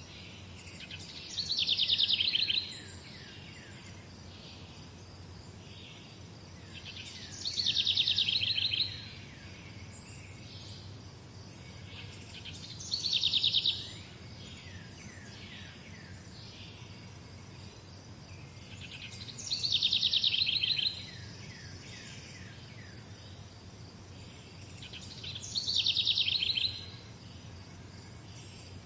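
A songbird singing the same short, fast trilled phrase five times, about every six seconds, over a steady low background hum.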